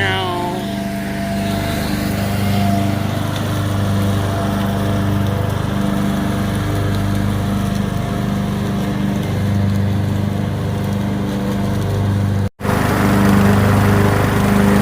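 Small lawn mower engine running steadily at a constant speed, with a brief break in the sound near the end.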